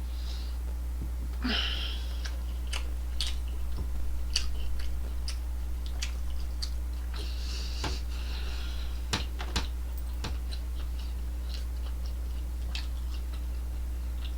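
Close-up chewing of McDonald's chicken nuggets: scattered wet mouth clicks and a couple of short hissing breaths while a mouthful is slowly worked down.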